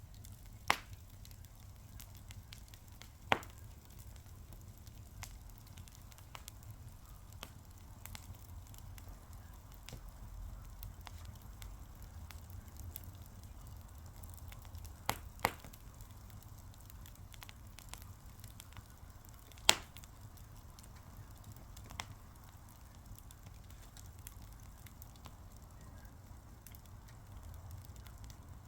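Fire crackling: a steady low rumble with scattered faint ticks and about six sharp pops, the loudest about twenty seconds in.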